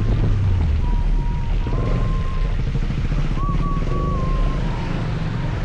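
Scooter ride noise: wind buffeting the microphone over engine and road rumble. A thin, wavering whistle comes and goes a few times.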